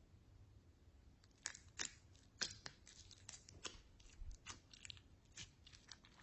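Slime being squished and mixed by hand, giving irregular faint sticky clicks and crackles that begin about a second in.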